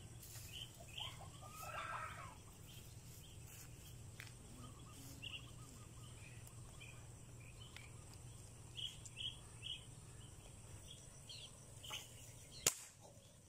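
Small birds chirping again and again over a low steady hum. Near the end, a single sharp crack from an air rifle being fired.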